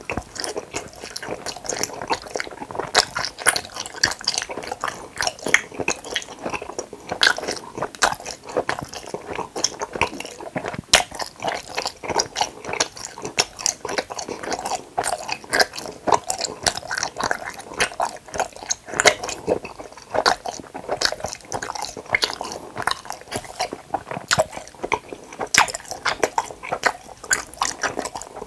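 Close-miked chewing of hamburger-shaped gummy jelly candy: a continuous run of quick mouth clicks and smacks.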